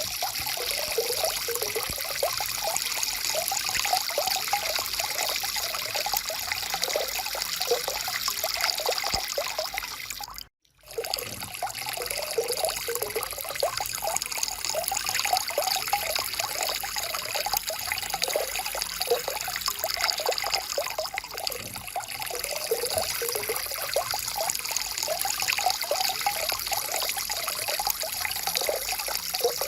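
A natural stream of water flowing, with a continuous trickling, gurgling rush. About ten seconds in it dips briefly to silence, then resumes.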